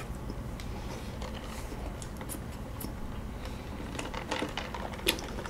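Faint chewing and mouth clicks, quiet and scattered, growing more frequent near the end with one sharper click.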